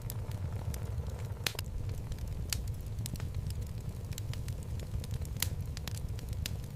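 Wood logs burning in a fireplace: a steady low rumble of the fire with irregular sharp crackles and pops, a couple of louder pops about a second and a half in and again past five seconds.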